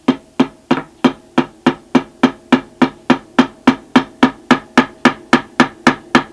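Small hammer gently tapping a walnut dot inlay into its hole in a wooden guitar fretboard: a steady run of even taps, about three and a half a second, each with a short ringing knock. The tapping stops near the end.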